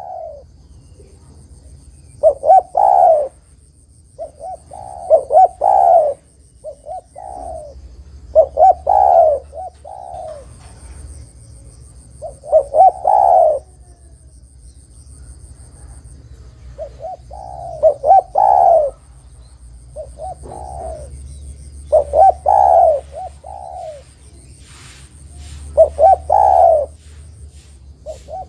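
Spotted dove (tekukur) cooing: a repeated phrase of several coos, about every three to four seconds. A faint steady high-pitched trill runs behind it.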